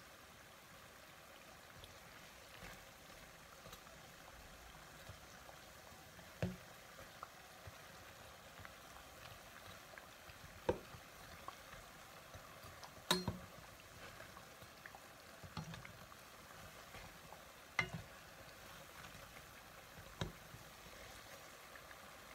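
Dough pinwheel puffs frying in shallow oil in a pan, a faint steady sizzle. A slotted metal spoon knocks sharply against the pan and puffs about six times as they are turned.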